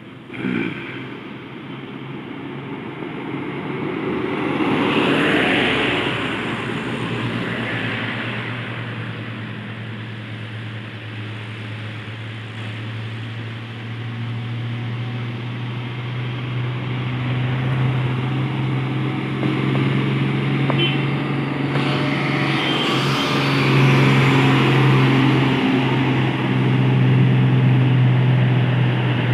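Heavy truck's diesel engine pulling uphill, a steady low drone that grows louder as it approaches. Other traffic swells past a few seconds in and again near the end.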